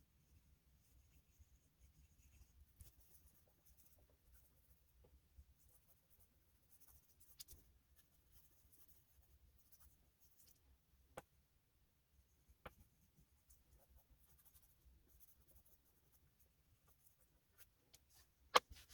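Faint scratching of an oil pastel stick being rubbed over textured drawing paper in intermittent strokes, with a few light sharp clicks.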